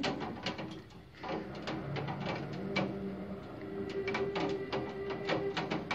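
Hailstones and rain striking a hard surface: a dense, irregular patter of sharp ticks and knocks, several a second.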